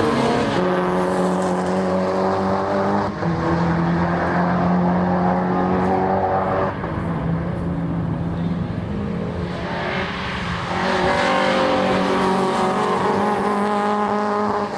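Racing cars at speed on the circuit, engines running hard. The engine note holds steady pitches that change abruptly every few seconds.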